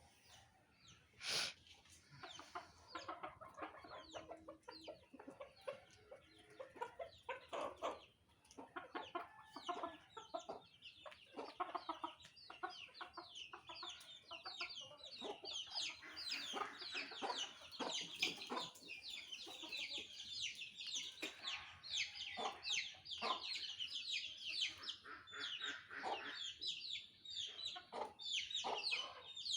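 Fowl clucking amid many quick, high, falling chirps, which grow much denser about halfway through.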